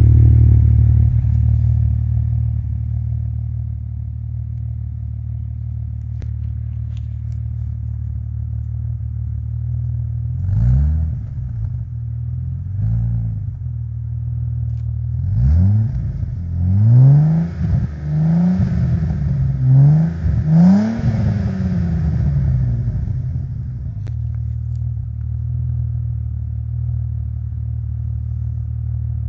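Audi 80 2.8 V6 with a 60 mm BN-Pipes exhaust from the catalytic converter back, idling. About a third of the way in it is given a series of about seven quick throttle blips, each revving up and falling back, then settles back to a steady idle.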